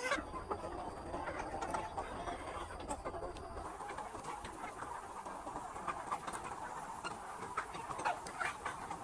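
A flock of capons clucking and chattering, with many overlapping short calls. A steady high whine and a low hum underneath stop about four seconds in.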